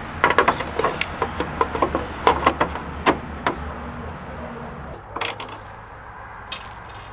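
A quick run of sharp clicks and light knocks from hand tools and small metal parts being handled, about a dozen in the first three and a half seconds, then a few scattered ones. A low steady hum runs underneath and fades after about five seconds.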